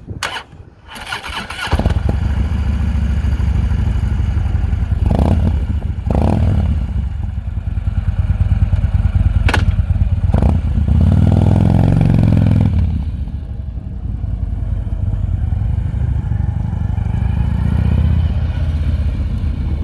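Harley-Davidson Street Glide Special's V-twin, fitted with aftermarket exhaust pipes, cranked on the starter and catching about two seconds in, then idling loudly with a short rise in revs a little past the middle.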